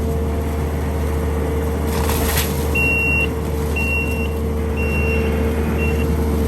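Skid steer running steadily while its reversing alarm beeps four times, about once a second, from a little under halfway through.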